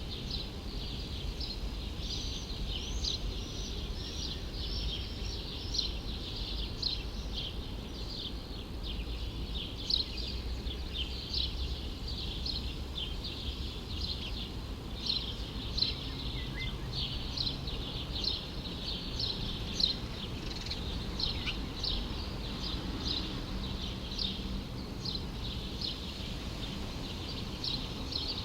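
Small birds chirping and twittering in a dense, continuous chorus of short, high calls, over a steady low city rumble.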